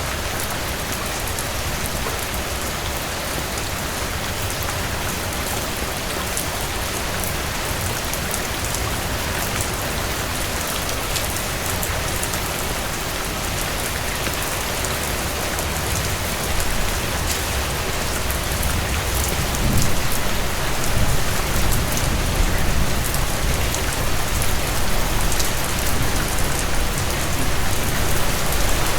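Heavy rain falling steadily in a dense, even hiss, with scattered sharp crackles from a fireplace. A low rumble swells up about halfway through.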